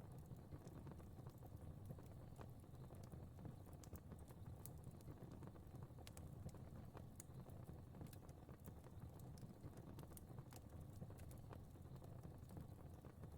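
Fire crackling in a fireplace: faint, irregular sharp pops and snaps over a steady low rumble of the flames.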